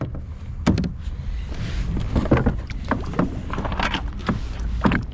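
Irregular knocks and clunks in a fishing kayak, over a steady low rumble.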